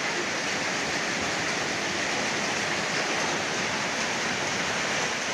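Steady rush of running water: meltwater from the hail flowing.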